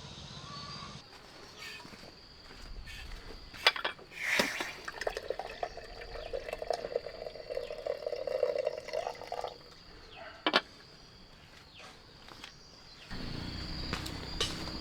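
Liquid being poured for about four seconds, with a few sharp knocks just before it and one more shortly after.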